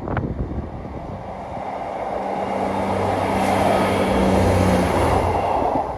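Class 158 diesel multiple unit passing, its diesel engine drone and wheel rumble building to a peak about four seconds in and then easing off.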